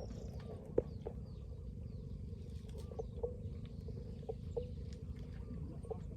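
Birds chirping faintly in the forest over a steady low rumble, with a few sharp clicks or snaps scattered through, the loudest about a second in.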